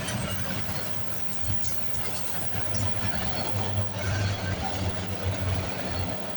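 CSX M353 freight train rolling past, its wheels running over the rails with a steady, unbroken noise and a low hum underneath.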